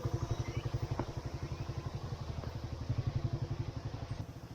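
Off-road motorcycle engine running slowly near idle, with an even, rapid pulsing beat and a light click about a second in.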